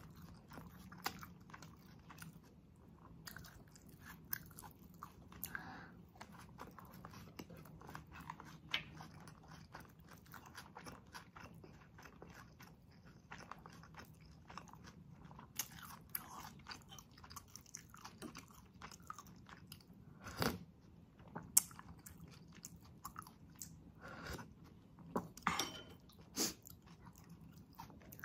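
Close-miked chewing of pork sisig and rice with the mouth closed: irregular wet mouth clicks and soft crunches. A few louder, sharper crunches come in the second half.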